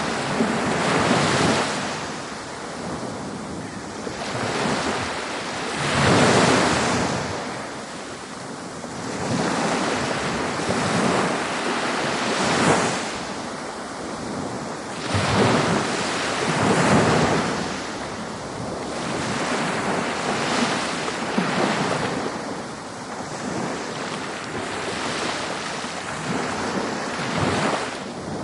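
Ocean waves breaking on a beach, the surf swelling and receding every few seconds in an irregular rhythm.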